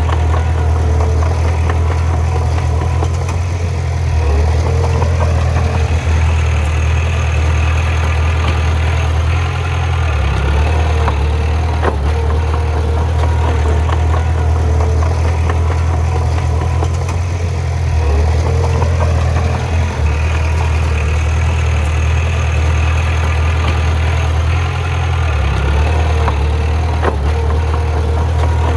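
Bulldozer's diesel engine running steadily, its low note shifting every several seconds as the load changes, with a few sharp clanks.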